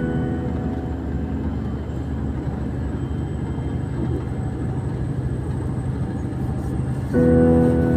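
A steady low rumble of a moving vehicle, with faint held music tones over it; louder music comes back near the end.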